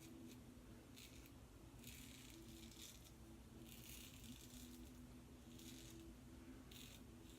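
Faint scraping of a Bevel safety razor's blade drawn over lathered stubble, a few short separate strokes, over a steady low hum.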